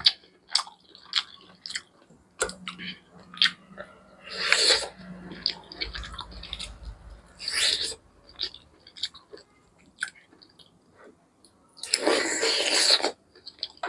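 Close-miked chewing and biting of a chicken leg piece: many short mouth clicks and smacks, with louder bites into the meat a few times, the loudest near the end.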